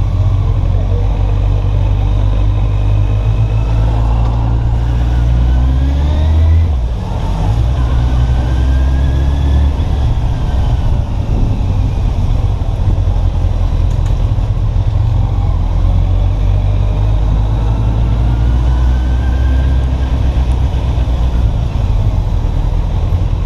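Kawasaki Z800's inline-four engine running at low revs, a steady loud rumble whose note drifts gently up and down.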